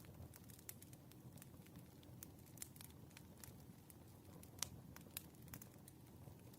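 Faint campfire crackling: a low rumble of burning wood with irregular sharp pops and snaps, one louder pop a little over halfway through.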